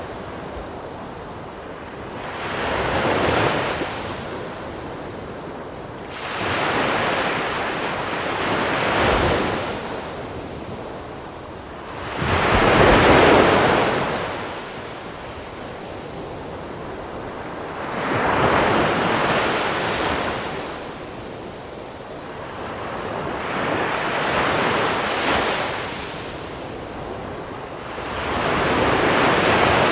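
Sea waves rolling in and washing up a small-pebble shore, one wave about every five seconds, each swelling to a crash and drawing back into a steady hiss; the wave about halfway through is the loudest.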